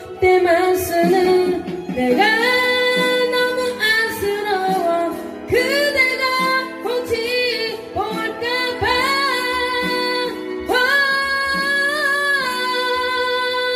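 Woman singing a Korean ballad live in long held notes over instrumental accompaniment, the last note held for about three seconds.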